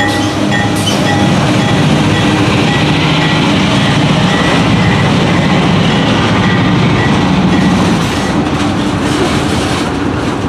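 Freight train rolling past at close range: a steady rumble of cars over the rails with a rhythmic clickety-clack of the wheels.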